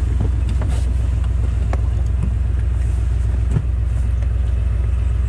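Rover P6 estate's engine idling steadily while the car stands, with a few light clicks and knocks from inside the cabin as a door is opened and someone climbs out.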